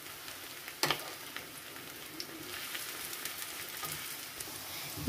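Eggplant strips sizzling as they shallow-fry in plenty of hot oil in a frying pan, stirred with a wooden spatula. There is one sharp knock about a second in.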